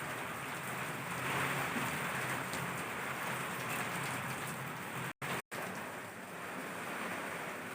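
Heavy rain pouring down in a steady, dense hiss. The sound cuts out twice for an instant about five seconds in.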